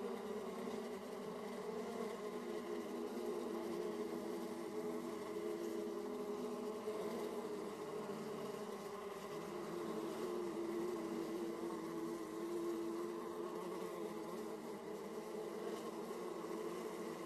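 Many honey bees buzzing at the hive entrance, a steady overlapping hum of wingbeats with several wavering pitches.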